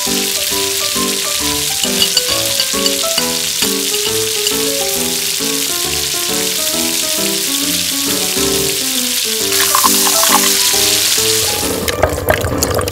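Background music, a melody of short notes, over the steady sizzle of sauce frying in a miniature steel wok. The sizzle grows louder about ten seconds in. Near the end the music stops, leaving the sizzle and the clicks of a small metal spoon stirring in the pan.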